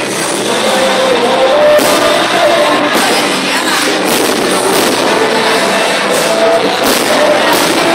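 Loud music and crowd noise, with several fireworks bursts popping and cracking overhead through it.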